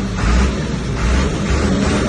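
Heavy diesel engine of earthmoving machinery, a bulldozer or dump truck, running hard, its low rumble swelling in surges about half a second to a second apart.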